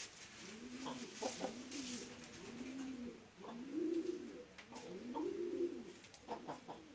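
Pigeons cooing, a string of low rising-and-falling coos about once a second, with a few light clicks near the end.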